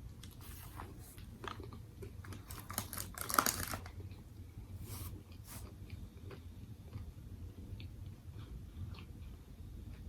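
Close-miked chewing and biting of crunchy food. There is a loud burst of crunching and crackling about three and a half seconds in, then softer, scattered chewing clicks.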